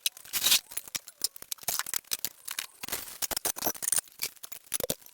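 A rapid, irregular run of clattering knocks and clicks, hard objects being picked up, set down and knocked together as things are moved about.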